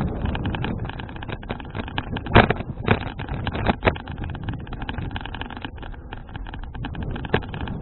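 Riding noise from a folding bicycle picked up by an action camera: wind rumble on the microphone under a constant patter of small rattles and clicks, with a few louder knocks between about two and four seconds in and one more near the end.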